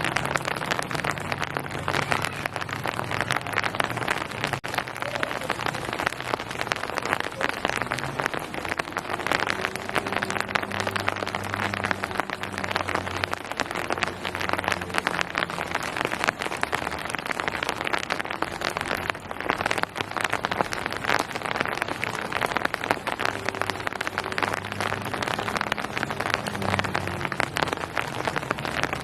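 Steady rain falling, a dense, even patter of drops hitting surfaces, with a faint low hum underneath.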